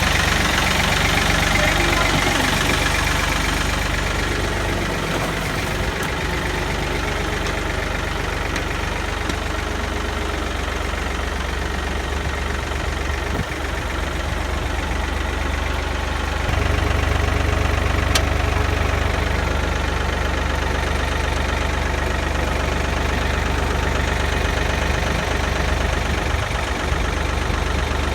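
Ford diesel tractor engine idling steadily, its low rumble growing louder a little past halfway through.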